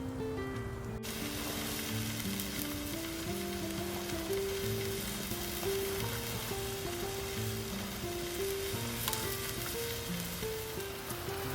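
Thick steak sizzling as it is seared over an open wood fire; the hiss starts about a second in and goes on steadily, over background music.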